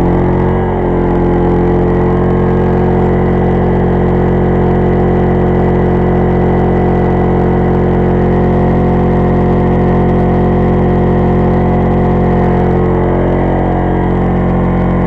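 Pulsar 2300-watt inverter generator's small engine running loud and steady under the load of a 1000-watt microwave in eco mode. Its speed shifts up about a second in and eases back near the end as the load changes, and it carries the load without trouble.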